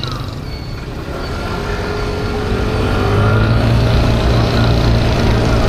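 A 50cc motorbike engine running under way, its pitch and loudness rising gently over the first few seconds as it picks up speed, over a heavy low road rumble.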